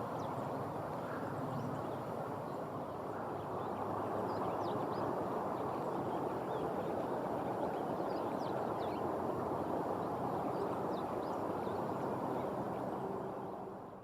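A steady rushing noise with faint, short high bird calls scattered through it. The rushing drops away suddenly at the very end.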